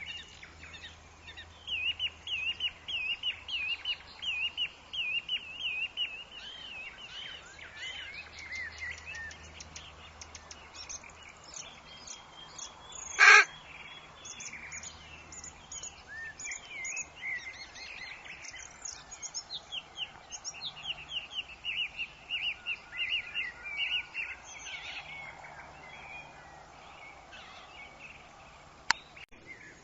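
Forest birds singing in fast, repeated chirping phrases, with a single brief, loud, sharp sound about halfway through.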